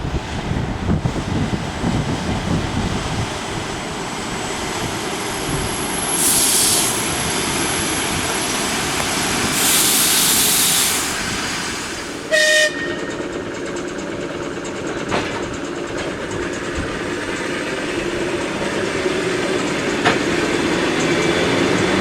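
Electric commuter train (elektrichka) running past with a steady rumble, two bursts of hiss, a brief tone about halfway through, and a rising whine near the end.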